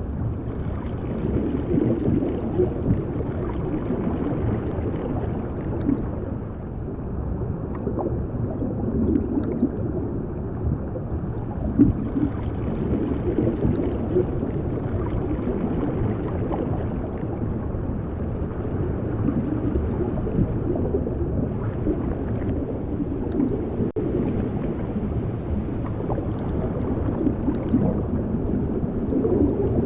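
Underwater ambience: a continuous, muffled churning of water with gurgling and a few scattered small ticks.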